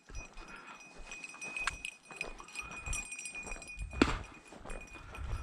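A small bell ringing steadily, as on the cocker spaniel's collar while she moves, with footsteps through brush and a sharper knock about four seconds in.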